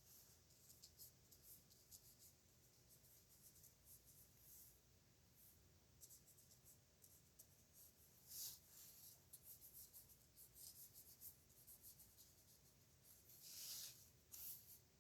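Faint scratching of a dip nib pen on paper as it writes in many short strokes, with a couple of longer, louder strokes about eight seconds in and near the end.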